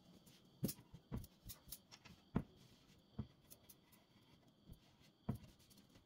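Irregular light clicks and knocks of household objects being handled and set down, about eight in six seconds, the sharpest about two and a half seconds in.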